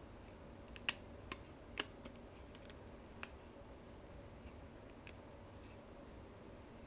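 Light, sharp clicks and taps from small camera parts and tools being handled: three louder clicks within the first two seconds, another a little after three seconds, then a few faint ones.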